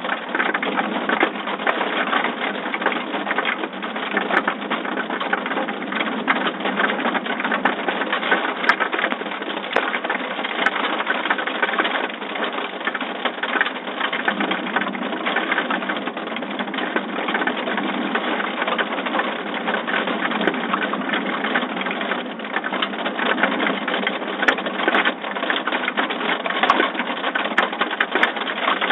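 Heavy thunderstorm rain falling steadily without a break.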